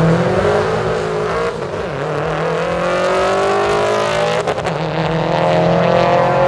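Car engine at full throttle on a drag strip, its pitch climbing as it accelerates, with a brief break about four and a half seconds in before the tone picks up again.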